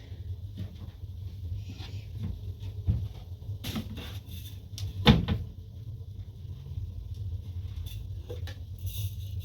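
A few scattered knocks and bumps, like things being handled or set down, over a steady low hum. The loudest, sharpest knock comes about five seconds in, with a smaller one near three seconds.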